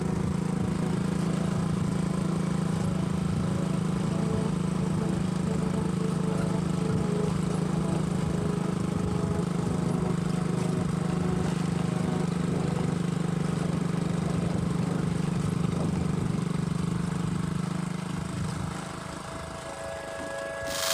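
An engine running steadily with an even, unchanging hum, easing off near the end.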